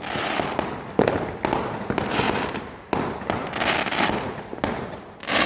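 Fireworks going off: a string of sharp bangs, roughly half a second to a second apart, each followed by crackling that trails off.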